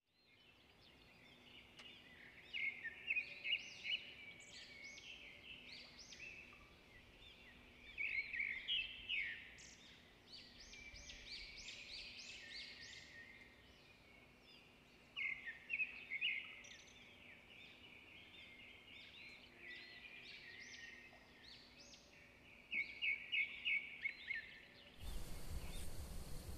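Birds singing outdoors: many short chirps and quick trilled runs of notes, coming in clusters every few seconds. Near the end a steady outdoor hiss takes over.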